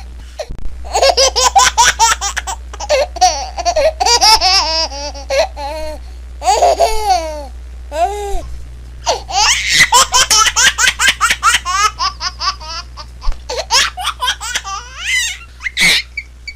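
A baby laughing in long strings of quick, pulsing laughs, with a few short pauses between fits.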